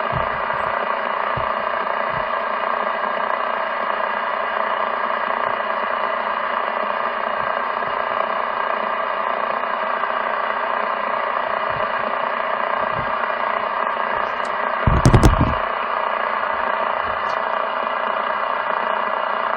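Steady, even hiss and rumble over a CB radio channel, as when a station holds its transmitter keyed without talking. One short thump comes about fifteen seconds in.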